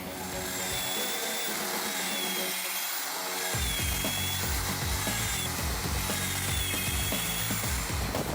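A powered machine cutting through wood with a steady, rasping noise; a heavier low rumble joins about three and a half seconds in. Background music plays faintly underneath.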